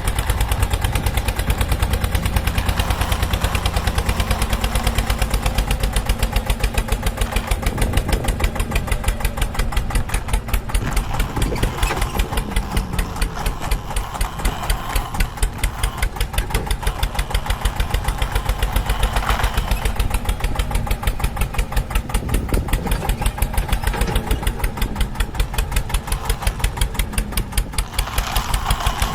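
Tractor engine running with a steady, rapid chugging beat that holds the same pace throughout.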